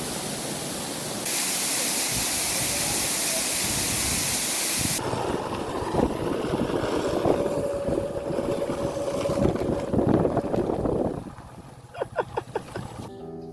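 Waterfall water rushing with a loud, steady hiss, getting louder about a second in. About five seconds in it changes to a rougher, lower rush with a faint steady tone. It drops away near the end, where a quick run of about six short pulses sounds.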